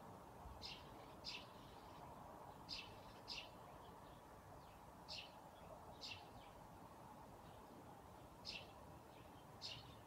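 Songbird chirps: about eight short, high single notes, some in pairs, spaced irregularly a second or so apart, over a faint steady hiss.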